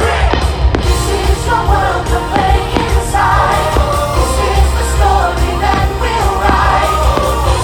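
Fireworks-show soundtrack: pop-style music with singing and a choir, with several sharp bangs of fireworks bursting at irregular intervals.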